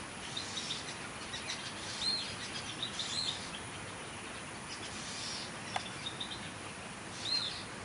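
Birds calling: runs of short, high chirps and several arched, high whistled notes, the loudest about two seconds in and again near the end.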